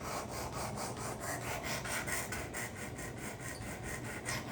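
Steel karambit blade stroked back and forth on the abrasive of a Work Sharp guided sharpening system: quick, even rasping strokes, several a second. This is the second side being sharpened, knocking off the burr raised on the first side.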